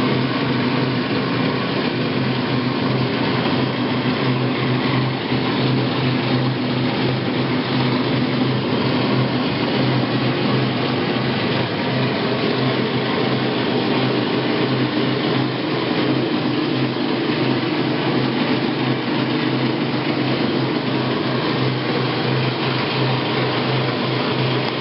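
Admiral AAV7000AWW washing machine running with a loud, steady mechanical noise and a low hum, a fault that a new drive belt has not cured.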